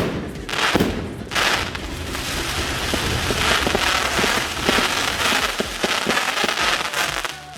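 Fireworks going off: a few sharp bangs at the start, then a dense, continuous crackling and hissing with many small pops, typical of crackling effect stars, dying away near the end.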